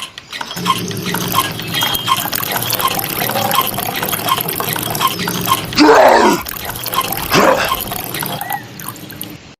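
Water running and dripping from a small homemade hand pump, with a regular drip or pump beat about every two-thirds of a second. There are two louder swells about six and seven and a half seconds in.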